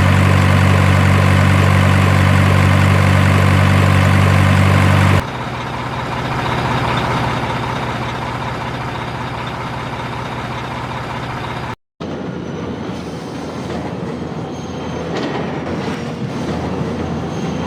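Heavy vehicle running noise in cut-together shots: a loud, steady engine drone for about five seconds, then a sudden change to quieter, even rumbling, broken by a brief dropout about twelve seconds in.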